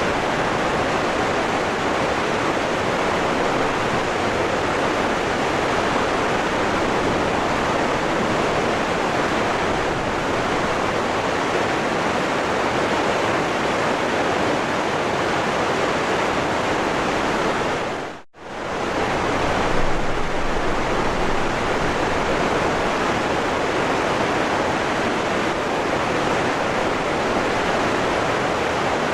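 Waterfall rushing in a steady, even roar of falling water. About two-thirds of the way through it fades out almost to silence for a moment and comes straight back, like a join in the recording.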